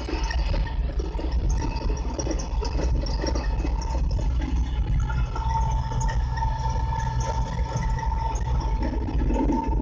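Tractor engine running steadily with a low rumble and a steady whine that grows stronger about halfway through.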